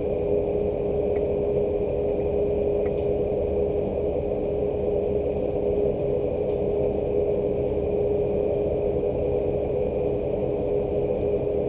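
Steady rain with a constant machine hum on one steady pitch running under it, and a few faint drip ticks.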